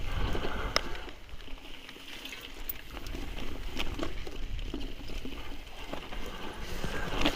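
Mountain bike riding a rough trail: tyre noise and scattered sharp clicks and knocks from the bike rattling over the ground, with wind rumbling on the microphone. The rumble eases about a second in and builds again.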